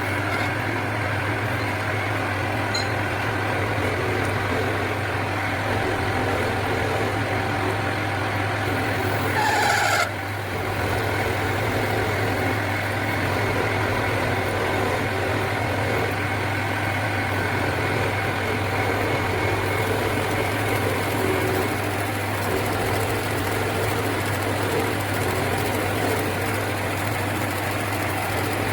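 A workshop machine's electric motor running steadily with a constant hum. About nine seconds in, a short rising whine builds and cuts off suddenly.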